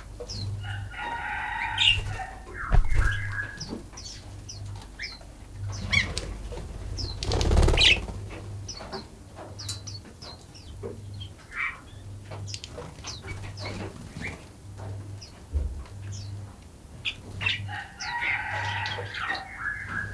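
Morning forest birds calling: many short high chirps throughout, with a longer call in several stacked tones about a second in and again near the end. A brief burst of noise stands out about halfway through.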